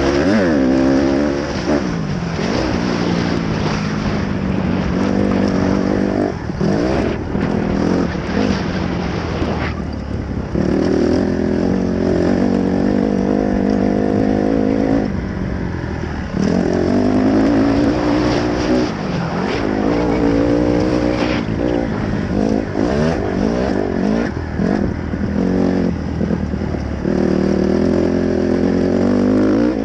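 Dirt bike engine revving as it is ridden, its pitch climbing and dropping over and over with throttle and gear changes, with short dips before each new climb.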